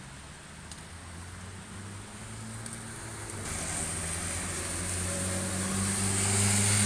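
A vehicle engine running at a steady pitch, getting steadily louder, with a rising hiss joining in about halfway through.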